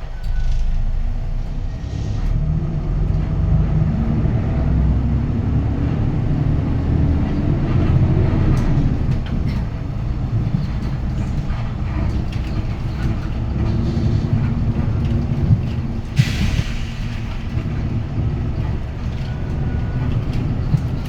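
Hyundai Green City city bus's D6GB diesel engine heard from inside the cabin, its pitch rising as it pulls away in gear, then dropping at a gear change and running steadier. A short hiss of air comes about sixteen seconds in.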